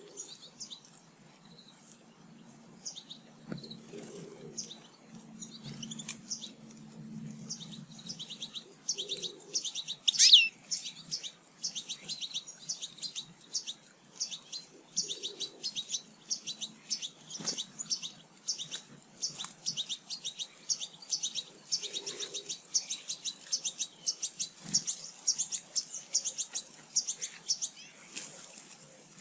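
Small songbirds chirping and twittering, sparse at first, then a dense run of rapid high chirps, with one louder, downward-sweeping call about ten seconds in.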